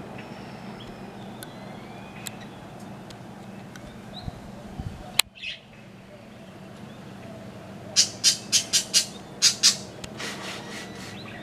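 Birds calling: faint chirps at first, then a quick run of loud, harsh squawking calls, about six in a second and a half, followed by a few more. A sharp click sounds a little after five seconds.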